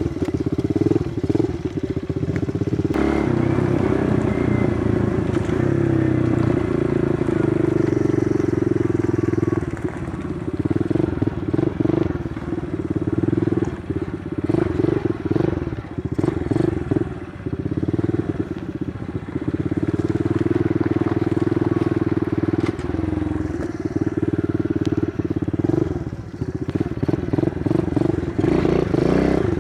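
Kawasaki KLX110 pit bike's small single-cylinder four-stroke engine running while riding, the note picking up about three seconds in and dropping briefly several times as the throttle eases or it changes gear.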